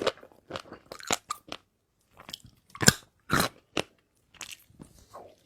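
Close-up chewing and crunching of shrimp with fish-roe sauce in the mouth: irregular crisp crunches and wet bites, with a short pause about two seconds in.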